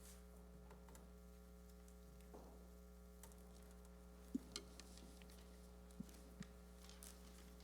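Near silence: room tone with a steady electrical hum and a few faint clicks and knocks about halfway through.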